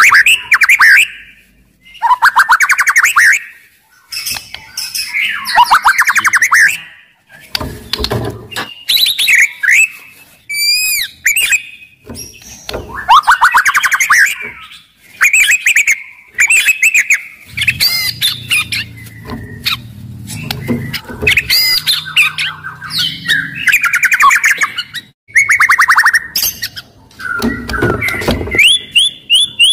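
White-rumped shama (murai batu) singing loudly and continuously, in phrases of rapid chattering and trilled notes with short pauses between them and a few high whistles mixed in.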